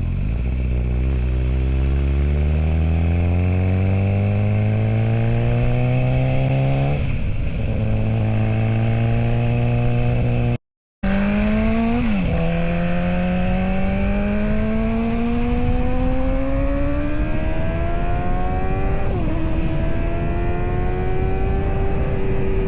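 MV Agusta Brutale 1090 RR Corsa's inline-four engine pulling hard through the gears, its note climbing steadily and dropping back at each upshift, about three times. The sound cuts out for a moment just past the middle.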